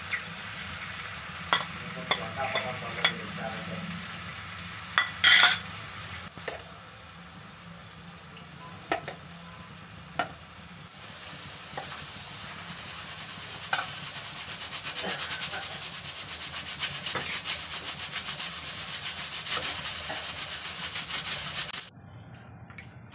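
Chicken pieces sizzling in a nonstick kadai, with a few sharp clinks against the pan in the first ten seconds. From about eleven seconds the sizzle grows louder and denser as the meat and spices are stirred with a spatula, then it cuts off suddenly near the end.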